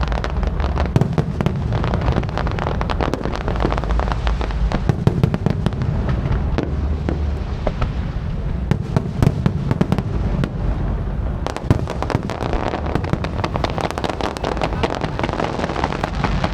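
Aerial fireworks display going off in a dense barrage: rapid crackling and popping over a continuous low rumble of booming shells, with no letup.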